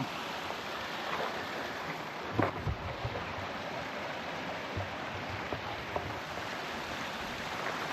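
Steady rushing of a flowing creek, with a few soft low thumps.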